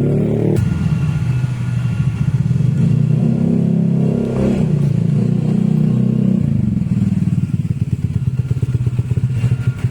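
Motorcycle engine running through a new exhaust, a steady low-pitched exhaust note with a fast pulsing beat that becomes more distinct in the second half.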